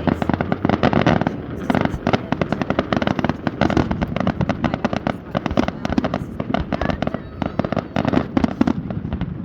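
A fireworks display at its finale: a dense, rapid barrage of bangs and crackling bursts, many overlapping every second, over a low rumble.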